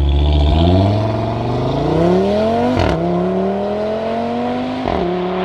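Audi TT RS 8S's turbocharged 2.5-litre five-cylinder engine and exhaust accelerating, the engine note rising through the revs with two quick upshifts about three and five seconds in, each dropping the pitch before it climbs again.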